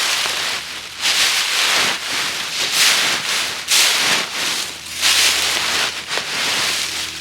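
Dry fallen leaves rustling and crunching in repeated swells, about one a second.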